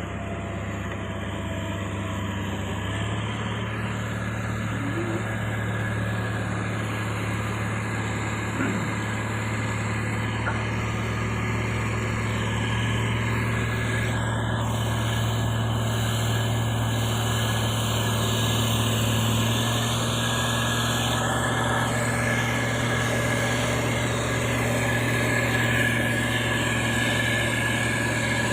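Motor grader's diesel engine running steadily, its low hum growing a little stronger a few seconds in.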